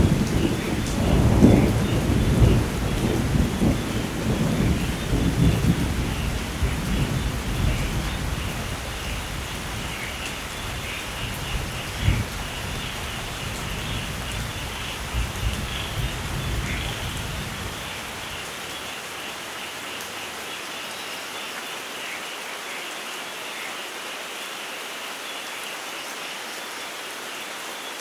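Steady heavy rain with a long roll of thunder that is loudest at the start, rumbles on with one sharper clap about twelve seconds in, and fades out well before the end, leaving just the rain. A constant high chirring of insects runs underneath.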